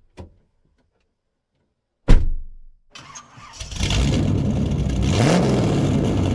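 A single loud thump about two seconds in, then a car engine cranks and starts, settling into steady running with a brief rev about five seconds in.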